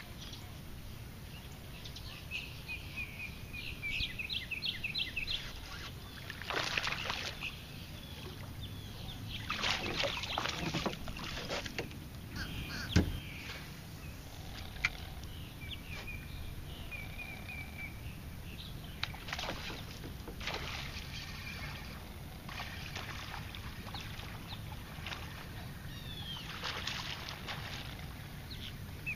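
Birds calling in repeated chirping trills over a steady low background of open-water ambience. Several short rushing noises and one sharp knock come from the boat and water as the angler casts and works a fish.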